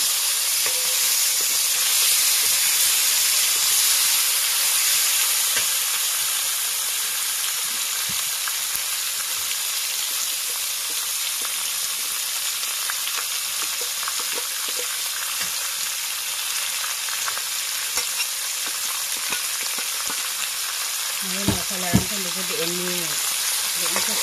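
Pork and taro pieces frying in oil in an aluminium wok, a steady sizzle, with a steel ladle stirring and scraping through the pan. Two sharp knocks of the ladle near the end.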